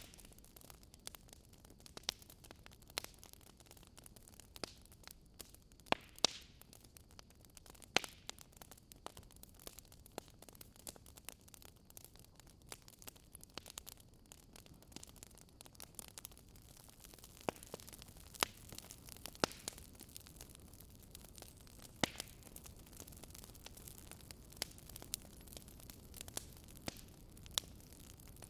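Campfire wood crackling, with irregular small sharp clicks and every few seconds a louder pop, over a faint steady background rush.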